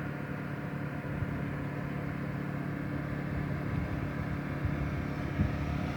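Steady propeller drone of a 1/6-scale radio-controlled Cessna T-50 Bobcat, its two electric motors running as it flies by, swelling slightly in the second half.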